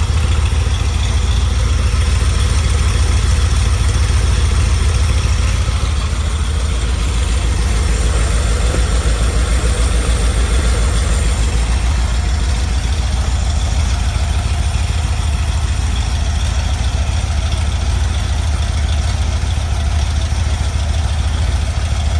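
Carbureted Rover 4.0 V8 running on an engine stand at a smooth, steady idle just under 800 rpm.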